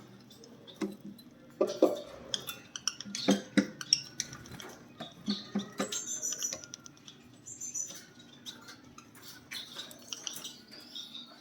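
Lovebirds giving short high chirps among a busy run of clicks, taps and rattles.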